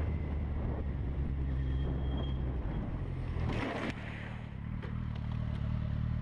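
Steady engine and road noise of a moving vehicle. A short rushing noise comes about three and a half seconds in, after which the hum settles slightly lower.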